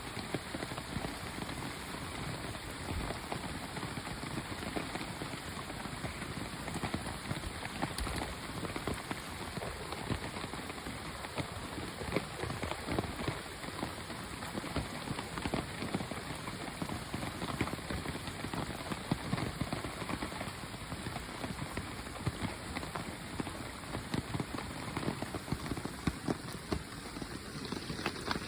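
Steady rain falling: a dense patter of many small drop impacts, holding an even strength throughout.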